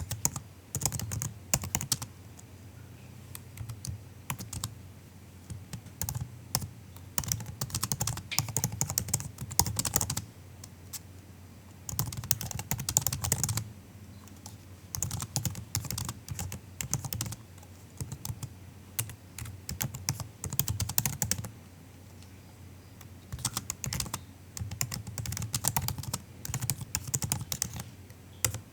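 Typing on a MacBook's built-in keyboard: soft, quick keystrokes in bursts of a few seconds, broken by short pauses.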